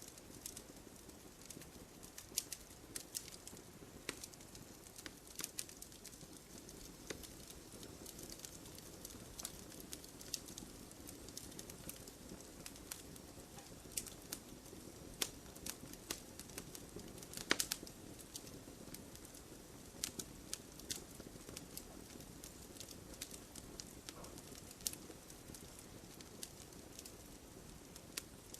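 Wood fire burning with a low hiss and scattered sharp pops and crackles, a louder pop about two thirds of the way through.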